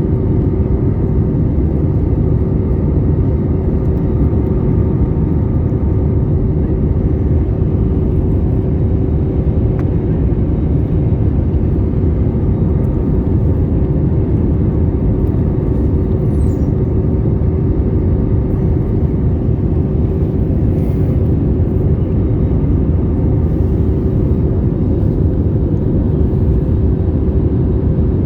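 Steady low drone of jet engines and rushing air heard inside the cabin of a Boeing 787-8 airliner, with a constant hum running through it.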